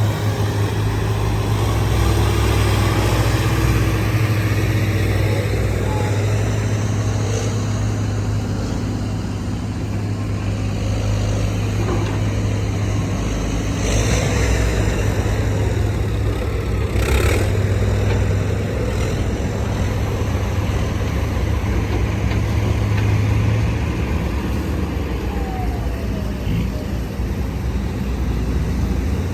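Heavy diesel earthmoving machinery, an excavator working with dump trucks, running steadily with a low engine drone. A couple of brief louder noises come about halfway through.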